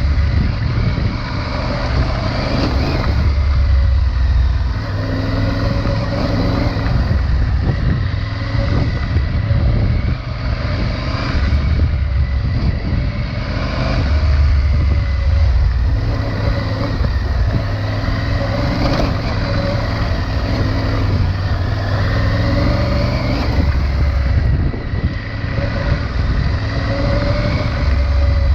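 Triumph Tiger 900 Rally Pro's three-cylinder engine with its T-plane crank firing order, running through the stock exhaust while riding on a dirt trail, the revs rising and falling repeatedly with the throttle.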